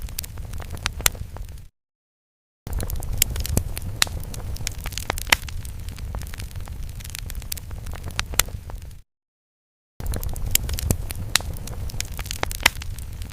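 Fire sound effect: a low rumble of flames with many sharp crackles and pops. It cuts to dead silence twice for about a second each, where the loop drops out.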